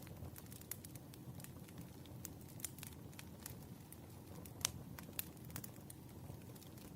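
Wood fire crackling, with irregular sharp pops over a low steady rumble of the flames; the loudest pop comes a little past halfway.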